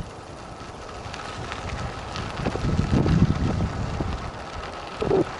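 Wind buffeting a head-mounted camera's microphone while cycling, with small knocks and rattles from the bike on a rough trail. The rumble swells about halfway through.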